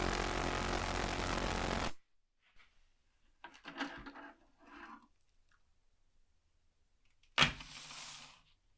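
A motor-driven workshop machine running steadily with a low hum, cut off suddenly about two seconds in. Then a few faint scrapes and small knocks of handling, and near the end a sharp knock followed by about a second of hissing noise.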